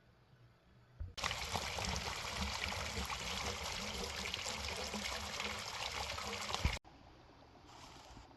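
Water pouring steadily, starting suddenly about a second in and cutting off abruptly near the end.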